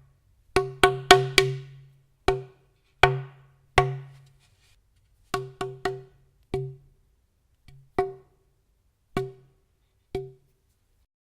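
Bare solid steam-bent wooden snare drum shell knocked about fifteen times in an irregular pattern, each hit giving a short woody ring with a clear low pitch.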